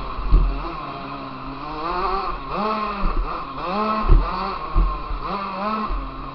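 KTM motocross bike's engine heard close up from an onboard camera, revving up and dropping back again and again as the throttle is opened and shut around the track. A few dull thumps cut through, the loudest about four seconds in.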